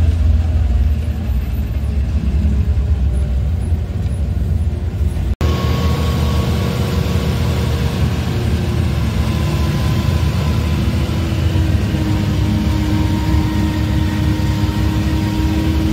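Engine and road noise of a vehicle driving up a winding mountain road, heard from on board: a steady low hum. It breaks off for an instant about five seconds in, and a steady whine runs through it after that.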